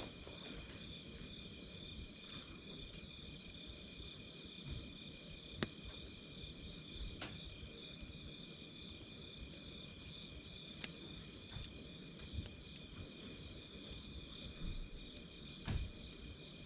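Campfire crackling quietly, with a few sharp pops scattered through, over a steady high trill of insects.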